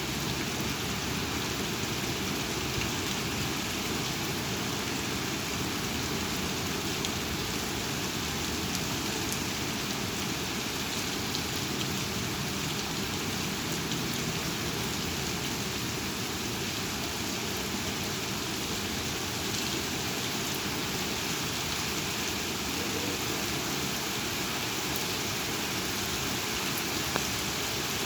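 Heavy thunderstorm rain falling steadily, an even hiss with no let-up.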